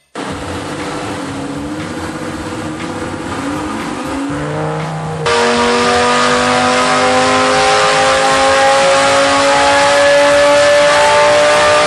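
Twin-turbo Lamborghini Gallardo V10 at full throttle on a chassis dyno, its revs climbing steadily through a long pull. The sound jumps abruptly louder about five seconds in, then the pitch keeps rising slowly.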